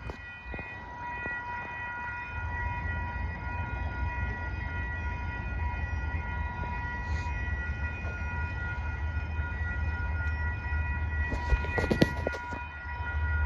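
Passenger train approaching and passing: a low rumble that builds, under a steady high ringing tone, with a short clatter about twelve seconds in.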